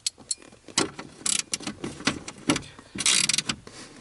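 Clicks and clinks of a metal hand tool on the dashboard's trim screws as they are undone, with a short rattle about three seconds in.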